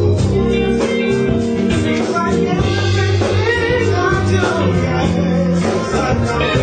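A band playing blues-rock live, with a singer over guitar and a steady beat.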